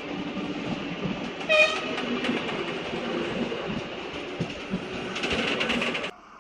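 A Renfe train running past with a continuous rail rumble and wheel clatter. A short, high horn blast sounds about one and a half seconds in. Near the end a faster clattering swells, then cuts off suddenly.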